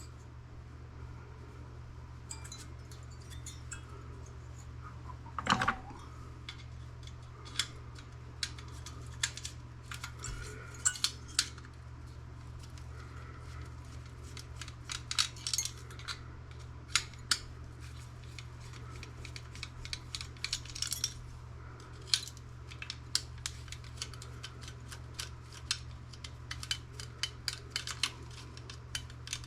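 Metal and plastic parts of a desktop computer clicking and clinking as it is taken apart by hand: scattered light taps and rattles, with one louder knock about five and a half seconds in, over a steady low hum.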